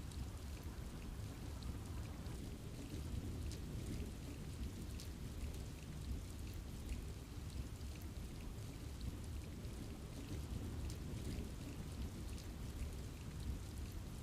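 Steady rain falling in a forest, a constant low rushing with scattered drops ticking on leaves.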